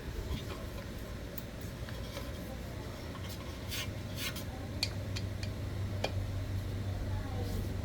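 Light scraping and clicking of metal parts being handled during repair work on a mini corn thresher, over a low steady hum that grows louder in the second half.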